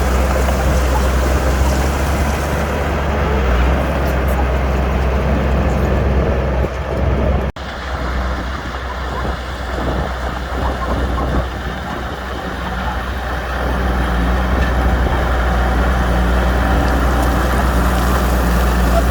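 Heavy diesel engine of earthmoving equipment running with a steady low drone, with a brief break about seven and a half seconds in.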